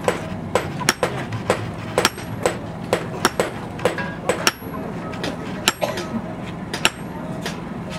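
Blacksmith's hammer striking steel on an anvil in irregular blows, about two a second, several with a high metallic ring, over a steady low hum.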